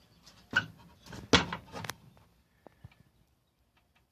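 Clunks of an old refrigerator's door being handled and opened: two loud knocks, about half a second and just over a second in, then a few lighter clicks.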